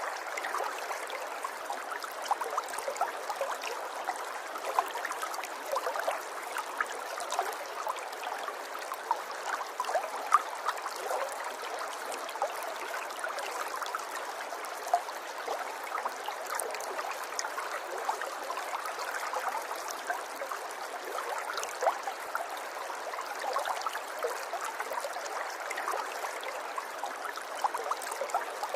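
River water flowing steadily over stones, a continuous rush dotted with small trickling and gurgling splashes.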